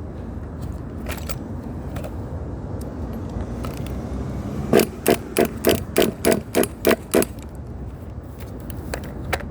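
A run of about nine sharp knocks, roughly three a second, over a steady low rumble, starting about halfway through and stopping a couple of seconds later.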